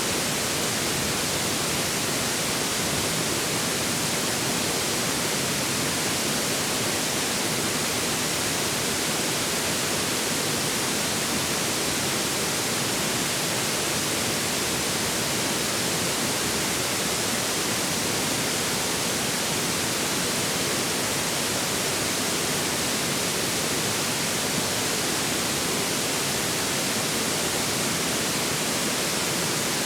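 Forest river running steadily: an even rushing hiss with no separate splashes, calls or other events.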